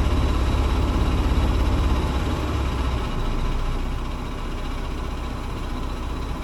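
Wind buffeting the microphone: a low, fluttering rumble that eases about halfway through.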